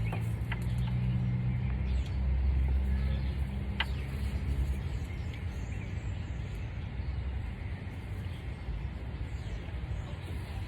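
Low vehicle engine rumble that is strongest for the first five seconds and then eases off, with a few small sharp clicks, the clearest about four seconds in.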